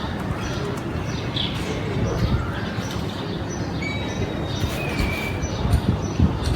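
Steady low background rumble with a few short, faint bird chirps in the middle.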